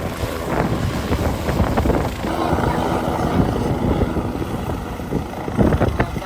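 Steady, rough engine noise from the race circuit, with no single machine rising and falling clearly enough to pick out.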